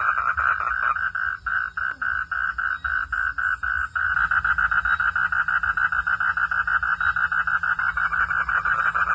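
Frogs calling in a night-time chorus of rapid pulses. The pulses stand apart at about seven a second for a few seconds, then about four seconds in the chorus fills in again into a dense, continuous trill.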